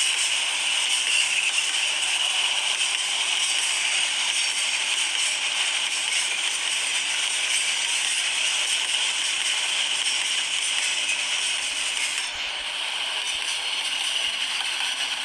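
Freight train rolling past: a steady metallic rattle and rolling noise of the wagons on the track, easing slightly about twelve seconds in.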